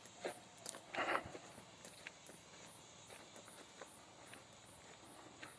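Faint footsteps and rustling on forest ground, with a louder rustle about a second in, over an insect chirping steadily high in the background about three times a second.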